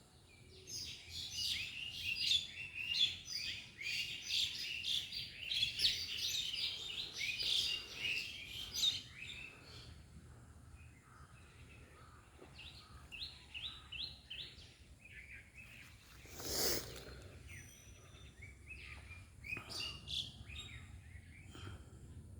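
A flock of small birds chirping, a busy run of quick overlapping chirps for about the first nine seconds, then thinning to scattered chirps. A single brief rustling noise cuts in about two-thirds of the way through.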